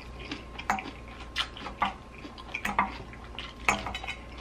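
Close-miked wet chewing of a mouthful of creamy salad, with sharp wet clicks and smacks about every second.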